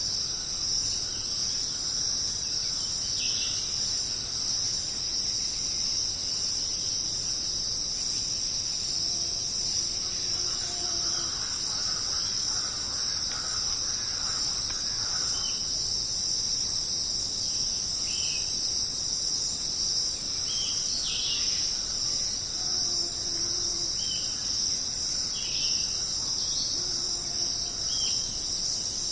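Jungle insect chorus: a steady, high, cricket-like drone, with short falling bird chirps dotted through and a few brief low calls of two notes.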